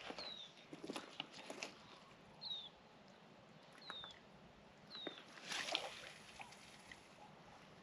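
Four short, high, falling bird calls spaced a second or more apart, over light clicks and ticks. About two-thirds through, a brief hiss as a spinning rod is cast and line runs off the reel.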